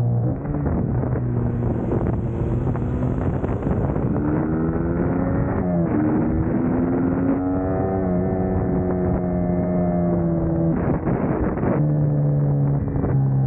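Suzuki GSX-S150's single-cylinder engine and exhaust while riding, the engine note climbing and dropping several times as the bike changes gear, with wind noise on the microphone.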